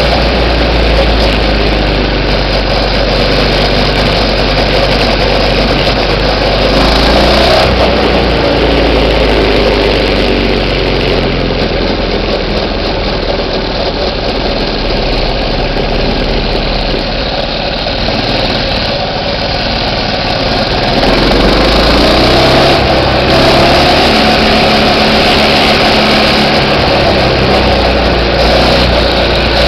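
Minibike's small engine running continuously, its speed rising and falling a few times.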